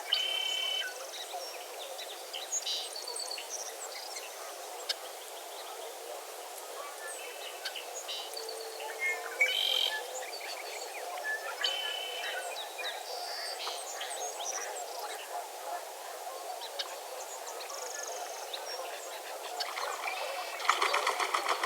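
Wetland birds calling and chirping over a steady frog chorus. There are scattered short calls throughout, and a loud rapid rattling call near the end.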